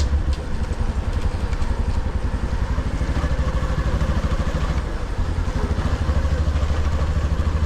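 Motorcycle engine running as the bike rides along, with a fast, even low throb of the engine's firing pulses.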